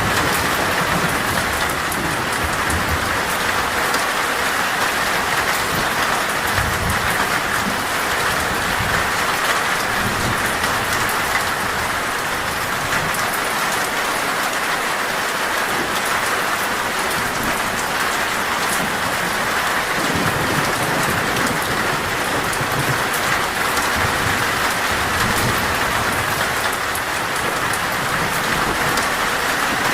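Heavy rain falling on a metal roof, a steady dense patter, with low rumbles of thunder swelling and fading now and then.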